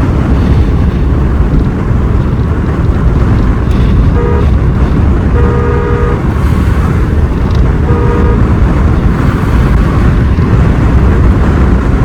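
Steady rumble of a vehicle driving along a road, with a horn sounding three short toots a few seconds in, the middle one a little longer.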